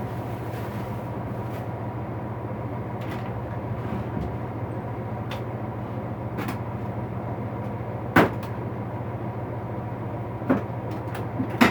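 A few scattered knocks and clanks of a toolbox and tools being handled, the loudest about eight seconds in, over a steady low hum.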